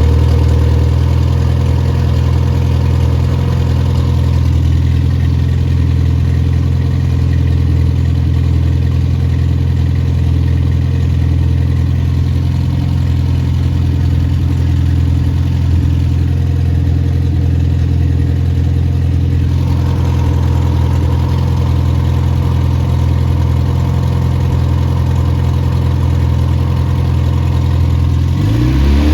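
Freshly rebuilt MG Midget 1500 four-cylinder engine running with no muffler, idling steadily at a low idle of about 800 rpm. Near the end it starts to rev up, the pitch rising.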